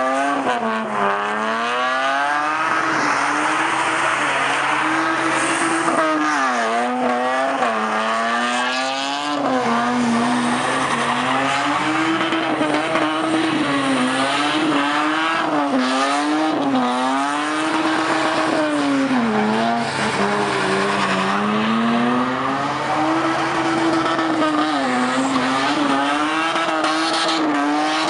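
A first-generation Lexus IS's straight-six engine revving up and down over and over as the car drifts in tight donuts, with its rear tyres spinning and sliding on wet tarmac.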